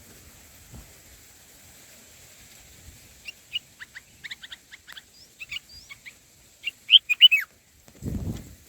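Bulbuls chirping at the nest: a run of short, high chirps that grows denser and loudest about seven seconds in, followed near the end by a brief low rustle.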